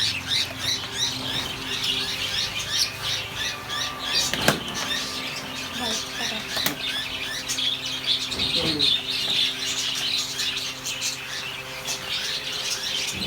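Many caged budgerigars chattering and chirping non-stop in high, rapid twitters, with a steady low hum underneath and a couple of sharp knocks.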